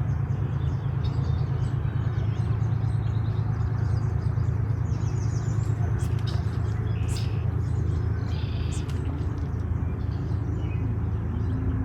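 A steady low rumble, with birds chirping over it.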